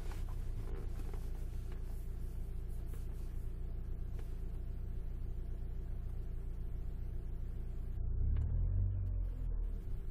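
Alfa Romeo 156 engine and road noise heard from inside the cabin while driving, a steady low rumble that swells louder about eight seconds in.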